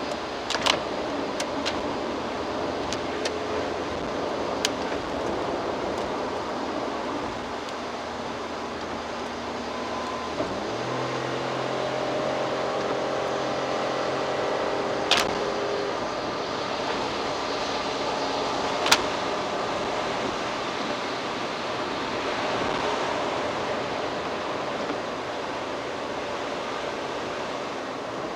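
Car driving on a rain-wet expressway, heard from a dashcam inside the car: steady road and tyre noise, with a few sharp clicks and a low hum that comes in for a few seconds about halfway through.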